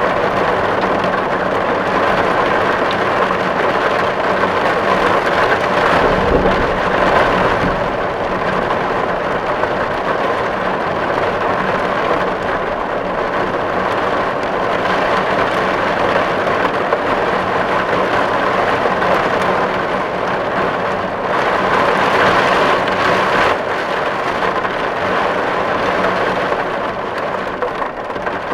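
Steady rain drumming on a tin roof, a dense even patter on the metal that swells heavier twice, around six seconds in and again past twenty seconds.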